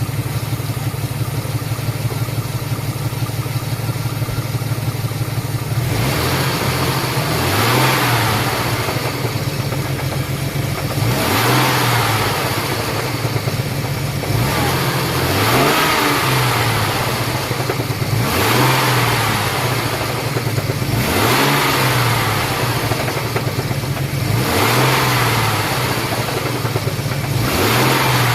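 Ford EL Falcon's 4.0-litre SOHC inline-six running steadily, then revved and let fall back about seven times, a few seconds apart. Its catalytic converter is blocked, which the owner blames for the heavy back pressure, the poor idle and the god awful racket, a cackling from inside the cat, that it makes once warm.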